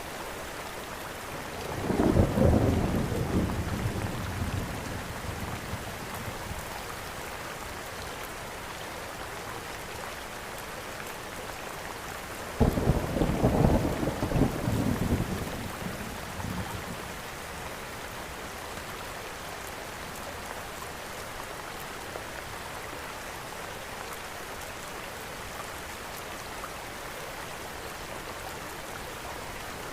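Steady rain hiss, with two rolls of thunder: one about two seconds in and another about twelve seconds in, each rumbling for a few seconds before fading back into the rain.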